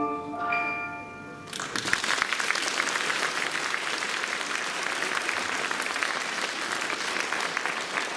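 The last held notes of a song die away, and about a second and a half in the audience breaks into steady applause that continues.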